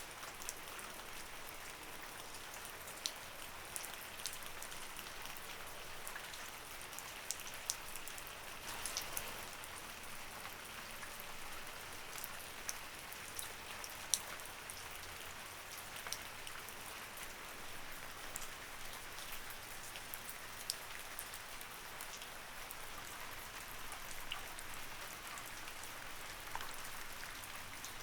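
Light rain falling steadily, a soft even hiss with many scattered sharp ticks of individual drops hitting a surface.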